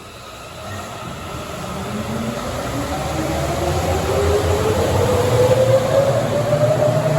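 Sapporo Municipal Subway Namboku Line 5000-series train pulling away: the traction motor whine rises steadily in pitch over a rumble, growing louder as the train accelerates.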